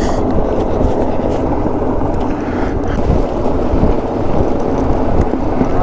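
Truck driving over rough ground, heard from its open bed: a steady loud rumble of engine and tyres with wind buffeting the microphone.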